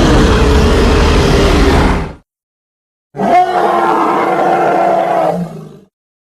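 Two separate dinosaur roar sound effects with silence between them. The first ends about two seconds in; the second starts sharply about three seconds in and trails off near the end.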